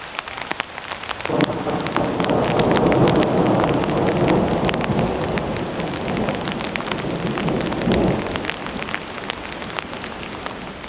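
Heavy rain falling, with many close drops ticking sharply. About a second in, a long roll of thunder rumbles in, loudest a couple of seconds later, then slowly dies away over several seconds.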